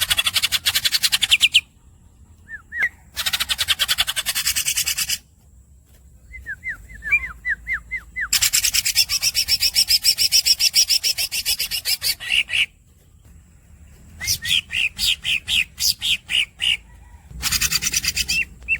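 Green leafbird (cucak ijo) singing: four long, very rapid rolling trills, the longest about four seconds, alternating with runs of short squeaky chirps.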